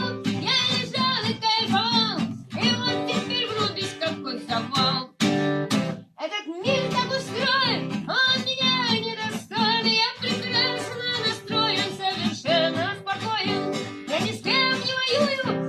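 Live song: acoustic guitar played with a voice carrying the melody, with a brief break about five to six seconds in.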